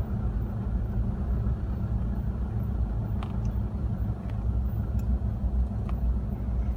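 Motor vehicle running with a steady low rumble, as heard while following slowly along, with a few faint clicks over it.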